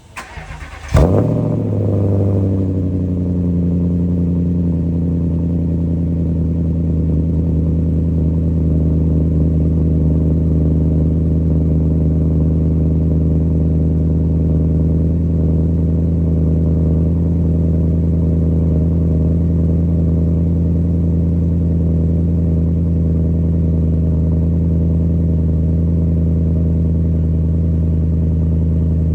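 Cold start of a Volvo XC90's Yamaha-built 4.4-litre V8 breathing through a custom Magniflow muffler with the middle resonator and rear muffler deleted: a brief crank, the engine catches about a second in with a loud flare, then settles into a steady, deep idle.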